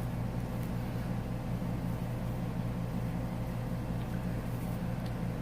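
Steady low electrical hum with an even hiss, the room's background noise. A faint brief rustle comes near the end.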